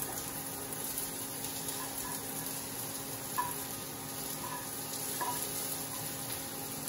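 Onion, garlic, chilli and ginger sizzling steadily in a frying pan as chopped tomatoes are scraped in from a wooden board and stirred with a spatula.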